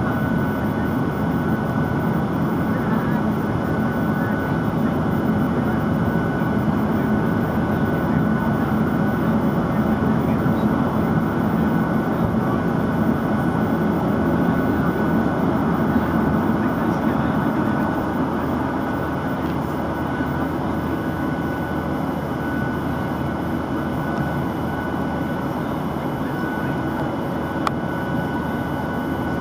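Cabin noise inside a Boeing 737-900 airliner at departure: the CFM56-7B turbofan engines and airflow make a steady rushing noise with a thin steady whine, easing slightly a little past halfway. One sharp click comes near the end.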